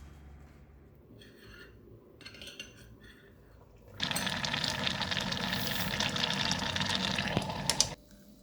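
Food sizzling in a hot pan. It starts suddenly about halfway through and cuts off abruptly about four seconds later, with a few faint small clicks before it.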